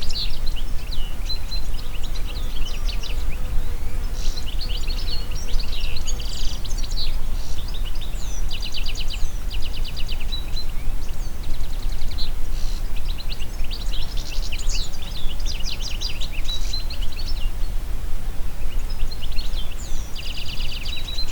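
Several songbirds singing in bursts of fast trills, chirps and short whistles, pausing twice for a few seconds, over a steady low rumble of wind.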